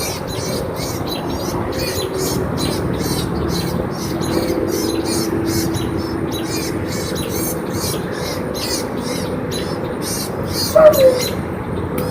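Birds chirping rapidly and incessantly in alarm, several high chirps a second over a faint steady hum, with a louder short call that falls in pitch near the end.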